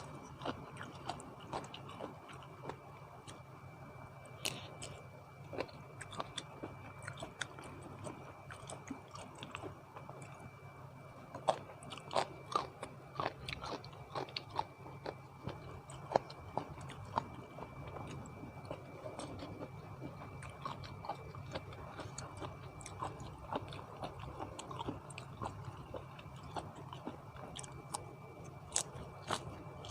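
A person chewing and biting food close to the microphone, with many small irregular crunches and wet clicks, while eating spicy seafood papaya salad. A faint steady high whine runs underneath.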